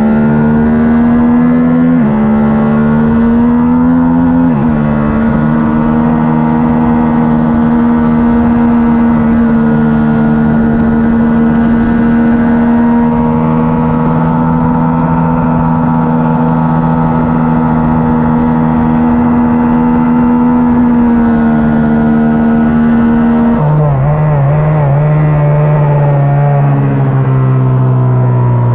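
Onboard sound of a twin-cylinder racing motorcycle engine under hard acceleration, shifting up twice in the first five seconds and then holding high revs on a straight. Past three-quarters of the way through, the engine note drops in steps as the rider backs off and slows for a corner.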